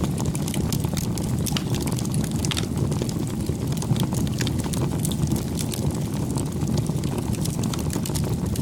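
Campfire burning, with a steady low rush of flame under frequent sharp crackles and pops from the wood.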